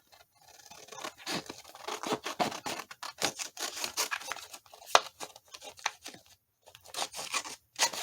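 Scissors cutting through paper in a run of many short snips, with a brief pause about six seconds in before the cutting resumes.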